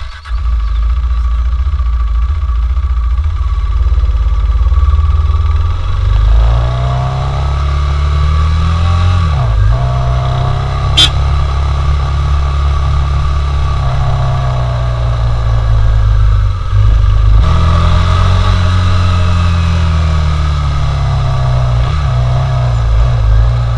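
KTM Duke 390's single-cylinder engine running loud, revving up and dropping back several times as the throttle opens and closes. A single sharp click about eleven seconds in.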